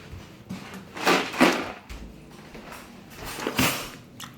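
Household handling noise: two bursts of rustling or rattling, about a second in and again after three seconds, as objects are picked up and moved about.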